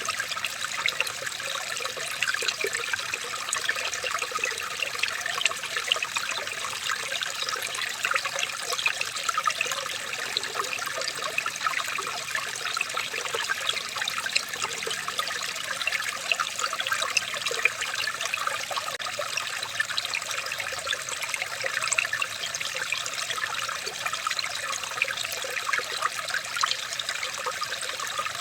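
Small stream of water trickling steadily, with many small splashes.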